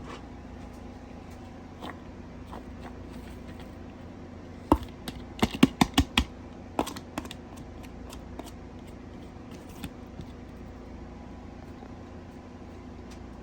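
Sharp clicks and knocks of kitchen handling over a steady low hum: a quick run of about six loud knocks about five seconds in, with lighter scattered clicks before and after.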